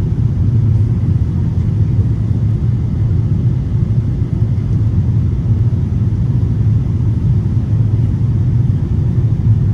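Cabin noise of an Airbus A330 airliner in flight: a steady low rumble of engines and rushing air, unchanging throughout.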